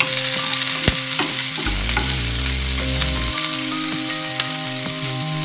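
Chopped shallots, curry leaves and a dried red chilli sizzling in hot oil in a nonstick pan while a spatula stirs them, with scattered sharp clicks through the sizzle.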